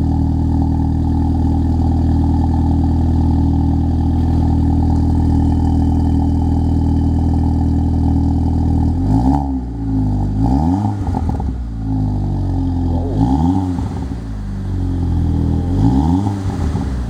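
Audi TT (8J) running through a Rowen aftermarket exhaust: a steady idle for about nine seconds, then three quick throttle blips that rise and fall in pitch, about three seconds apart.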